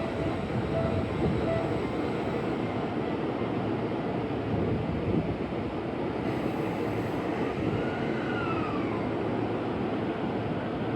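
E231-500 series commuter train pulling out of the station, a steady rumble of running and rail noise, with a faint whine that rises and falls about eight seconds in. A few short beeps sound at the very start.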